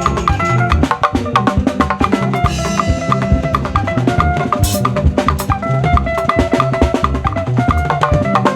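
Live band music without vocals: a drum kit with bass drum and snare keeping a steady, busy beat under a bass line and short repeating melodic riffs.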